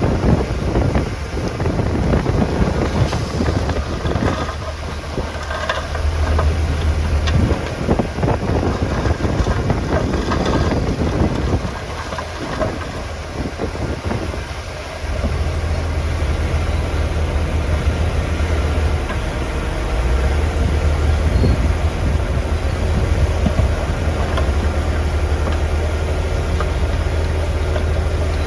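Heavy bulldozer's diesel engine running under load with some clattering, easing off for a few seconds around the middle and then working hard again.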